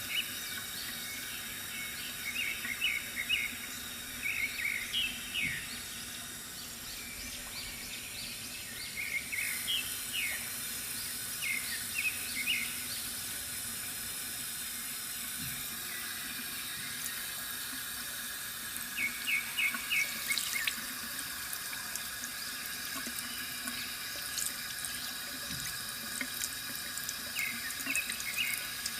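Water running steadily from a bamboo water fountain, a continuous even splashing trickle, with birds chirping in short quick runs of notes every few seconds.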